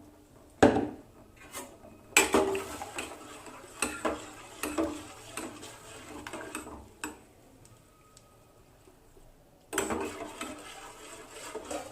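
Spoon stirring a pot of salted water, scraping and clinking against the pot in several bouts, with a quiet pause of about two seconds before the last bout.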